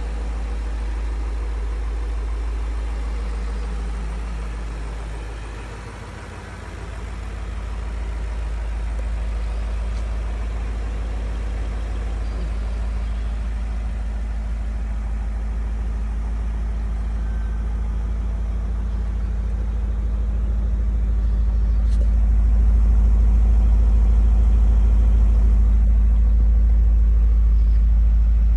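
A 2003 BMW M5's 4.9-litre V8 idling steadily with the hood open. It grows louder after about twenty seconds, as the sound comes nearer the rear of the car.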